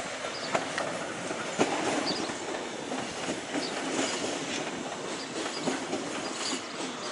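Railway train running on the track, its wheels clacking irregularly over the rail joints, with a few short high wheel squeaks.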